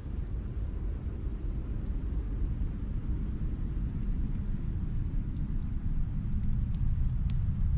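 Wood fire crackling in a fireplace: a few scattered sharp pops over a low, rushing rumble that grows slightly louder toward the end.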